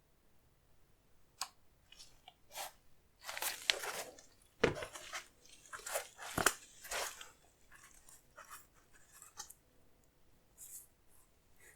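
Sneaker packaging being handled: irregular crinkling and rustling of paper or plastic wrapping, busiest in the first half, with two sharper knocks a little before halfway, then a few light rustles.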